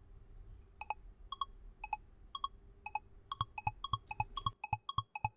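Quiz countdown-timer sound effect: short pitched ticks, about two a second at first, speeding up to about four a second from about three seconds in and faster still near the end.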